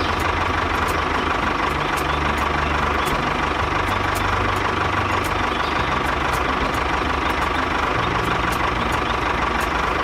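Mini tractor engine running steadily, its low drone shifting slightly in pitch every second or so.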